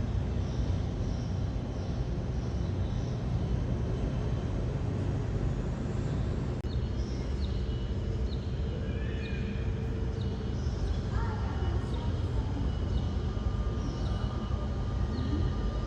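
Steady low rumble of airliner jet engines, with a small bird chirping repeatedly in short, high notes over it.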